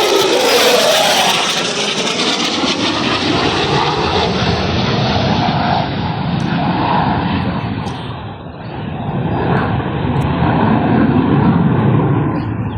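Loud aircraft engine noise from a fixed-wing aircraft flying past, with a sweeping change in tone as it passes, dipping briefly about eight seconds in before building again.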